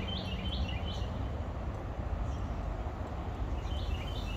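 A bird calls in a quick series of short, evenly repeated chirps, about four a second. The chirps stop about half a second in and come back near the end, over a steady low outdoor rumble.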